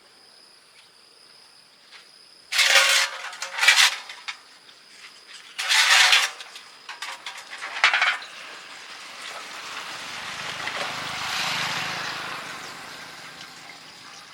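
Four short bursts of hissing noise, then a longer hiss that swells and fades away.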